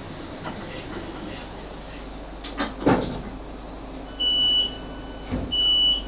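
Door warning beeps on a Class 458 electric train standing at a station: a steady high beep repeated twice, about 1.3 seconds apart, starting about four seconds in, signalling the doors are being released. A clunk comes just before, near the three-second mark, over the low hum of the stopped train.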